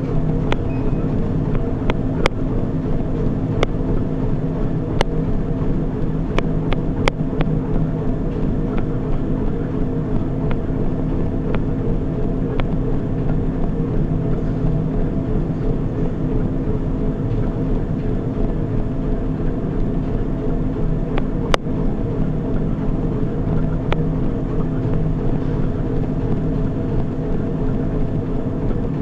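Treadmill motor and belt running with a steady hum, with a few scattered sharp clicks.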